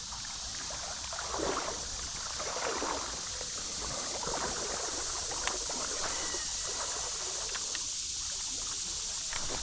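Creek water running steadily, with a few soft splashes now and then.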